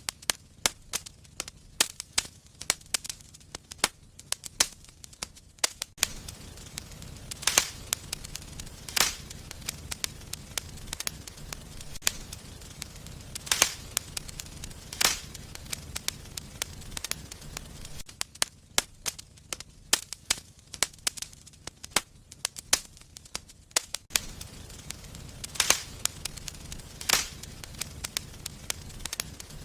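Fireplace fire crackling steadily over a low, even rumble, with many small snaps and a few louder sharp pops every few seconds.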